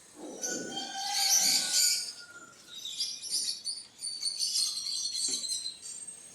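Small birds chirping, many quick high calls overlapping, loudest about a second in.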